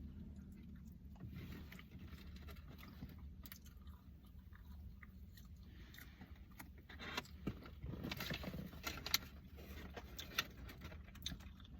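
Quiet chewing and eating sounds, with scattered small clicks and scrapes that grow a little louder about two thirds of the way through, over a low steady hum in a car's cabin.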